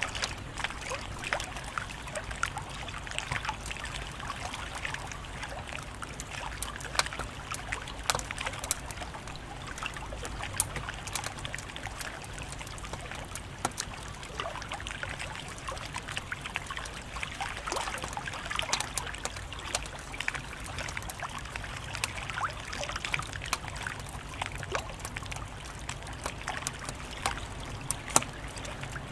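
Wood fire crackling steadily, with many small irregular pops and a few sharper, louder snaps scattered throughout.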